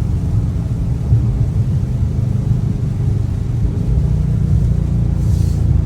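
Dodge Charger Scat Pack's 6.4-litre HEMI V8 on its stock exhaust, a low steady drone and road rumble while cruising. The drone settles onto a steadier low tone about four seconds in.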